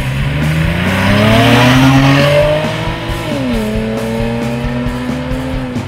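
2010 Camaro 3.6-litre V6 running through a Flowmaster American Thunder axle-back exhaust, its pitch climbing for about two seconds, then dropping about three seconds in and holding a steady lower note.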